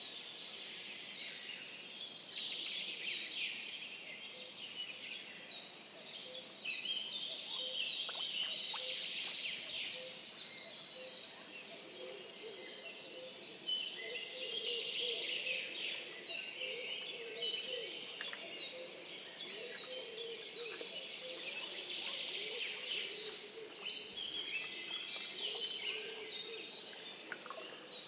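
A chorus of forest songbirds, many birds singing at once. One nearby bird sings a long, loud song phrase twice, about a quarter of the way in and again near the end, each lasting several seconds.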